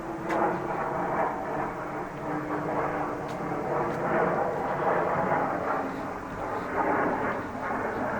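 A steady rumble of engine noise, such as an airplane passing overhead, with a faint steady hum running through it.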